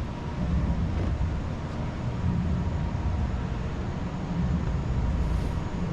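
Steady low rumble of a large hall's ventilation and air handling, with a faint steady tone above it.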